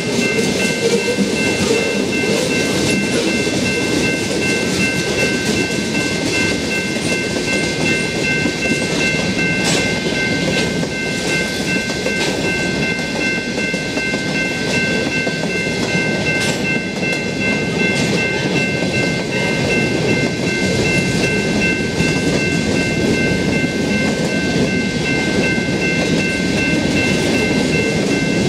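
Freight cars of a mixed freight train rolling past over a street grade crossing: a steady rumble with the click and clatter of wheels over rail joints. A grade-crossing bell rings steadily over it.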